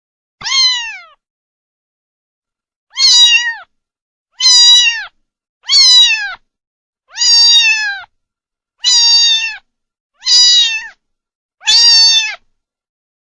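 Domestic cat meowing eight times, each call about half a second to a second long and sliding down in pitch at its end, with short gaps between.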